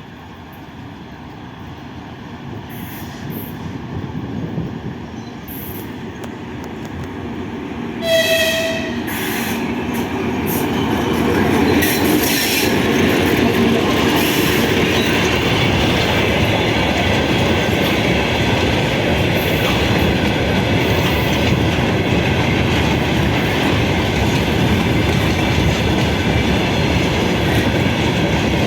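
A train approaching and passing close by, growing steadily louder. A short horn blast sounds about eight seconds in, then the steady noise of the wheels and cars going past.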